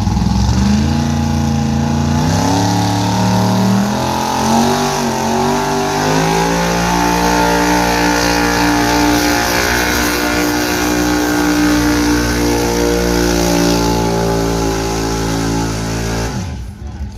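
Gas pickup truck engine at full throttle under load pulling the weight sled: revs climb over the first several seconds, hold steady at high rpm, then drop away abruptly near the end as the throttle is released.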